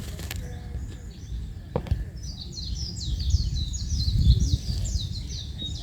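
A small bird singing a rapid run of short, high, falling notes, starting about two seconds in, over a steady low rumble, with a single sharp click just before the song begins.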